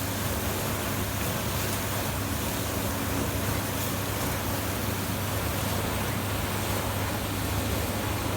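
Fagor FI-120 hood-type dishwasher running its wash cycle with the hood closed: a steady pump hum under the rushing noise of water spraying inside.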